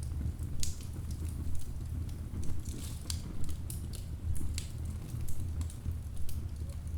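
Wood fire crackling in a fireplace: irregular sharp pops and snaps from the burning logs, thickest in the first two-thirds, over a steady low rumble.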